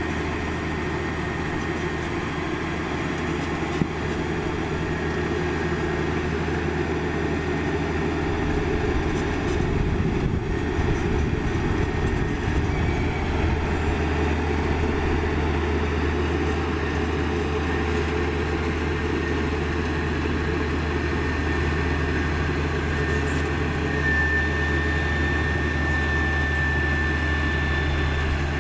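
Komatsu GD555 motor grader's diesel engine running steadily at work, a deep even hum whose low note wavers and changes for a few seconds about a third of the way in. A thin, steady high whine comes in near the end.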